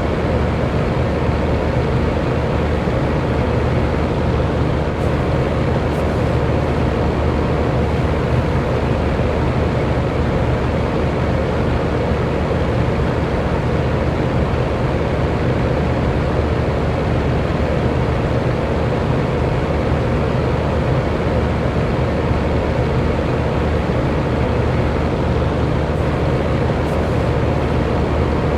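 Electric fan running steadily: an even rush of air with a faint steady motor hum under it, unchanging throughout.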